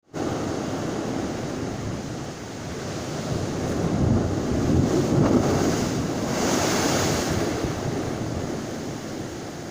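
Rough sea surf crashing and surging against the shore, with strong wind buffeting the microphone. The surge builds to its loudest about halfway through, then eases off.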